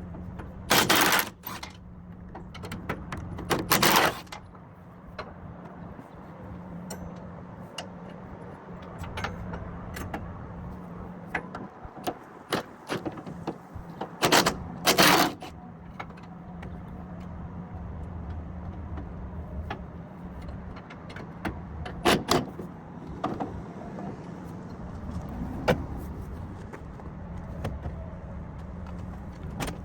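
Loud metallic clanks and knocks a few seconds apart, with lighter ticks and rattles between them, over the steady hum of an idling vehicle engine.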